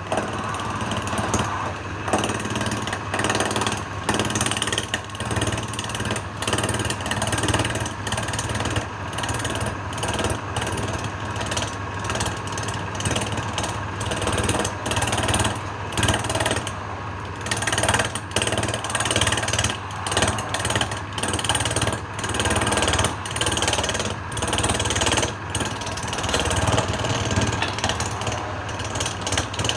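Wood lathe running, with a turning tool cutting the spinning wood: a steady motor hum under a rough cutting noise that swells and dips in uneven strokes.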